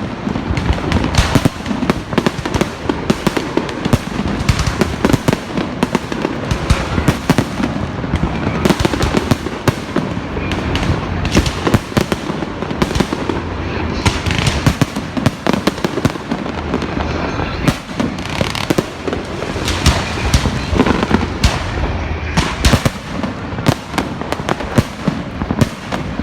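Fireworks and firecrackers going off in a dense, continuous barrage of overlapping bangs and crackles.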